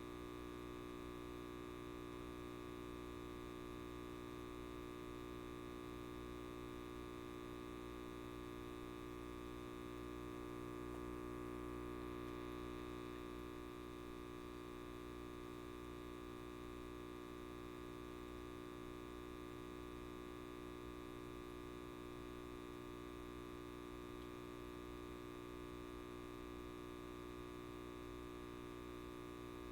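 Electric light bulb giving off a steady mains buzz, many-toned and unchanging, swelling slightly about a third of the way in.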